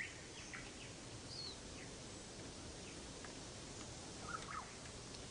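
Faint, scattered bird chirps over a steady low background hiss.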